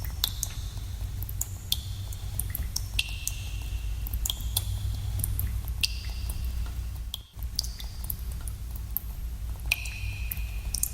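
Water drops falling into a cave pool, each a sharp plink with a short ringing tail, at irregular intervals about one or two a second, over a steady low rumble. The background cuts out briefly a little past the middle.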